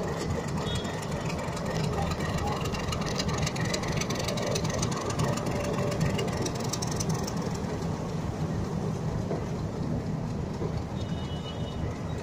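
Train running along the tracks: a steady rumble.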